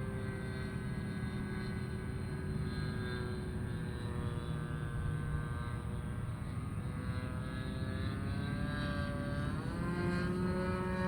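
Engine and propeller of a radio-controlled model airplane in flight, running steadily. The pitch sags slightly at first, then climbs toward the end.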